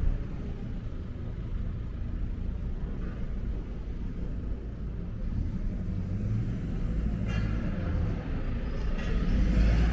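Low, steady rumble of road traffic, with a vehicle passing close near the end.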